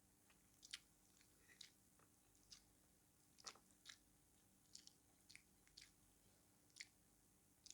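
Close-miked eating: chewing with about a dozen short, wet mouth clicks and smacks at irregular intervals.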